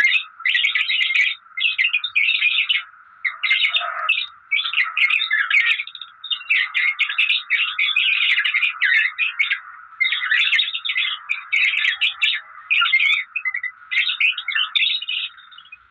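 Parrot chattering and chirping in rapid bursts with brief pauses between them.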